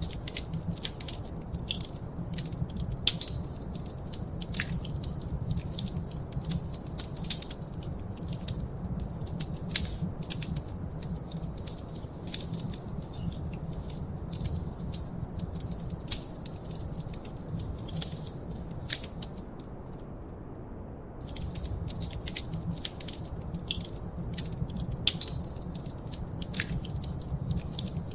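Wood fire in a fireplace crackling: a dense run of sharp pops and snaps over a steady low rumble of the flames. The crackling stops for about a second around twenty seconds in, then resumes.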